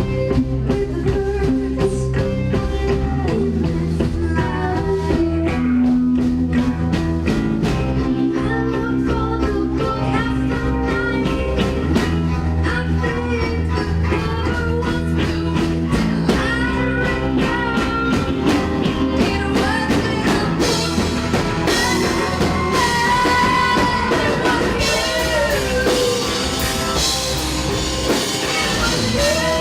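Rock band playing live: guitar over bass and drums in an instrumental passage, with a high bending lead line in the second half.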